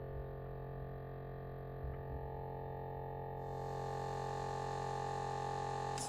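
12-volt electric air compressor running with a steady hum. About three and a half seconds in, a hiss joins and it gets slightly louder.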